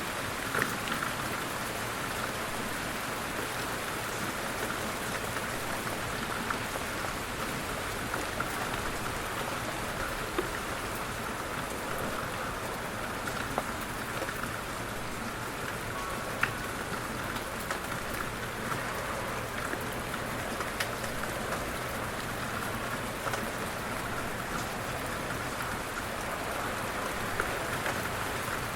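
Light rain falling steadily, with scattered sharper drops standing out from the even patter.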